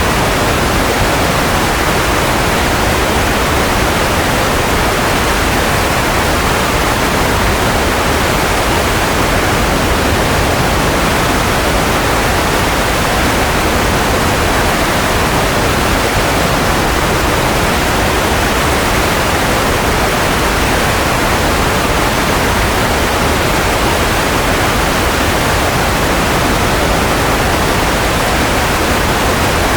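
Steady white noise for baby sleep: a loud, even hiss that does not change.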